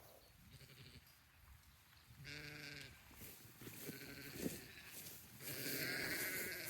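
A sheep bleats once, a flat-pitched call about two seconds in, with a few shorter faint calls after it. From about five and a half seconds a steady hiss sets in and becomes the loudest sound.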